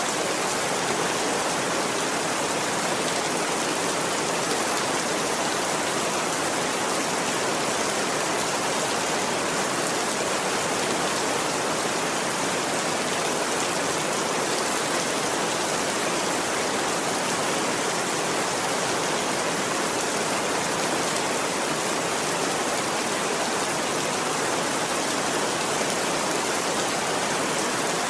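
Steady rain falling, a dense, even hiss that holds at one level throughout.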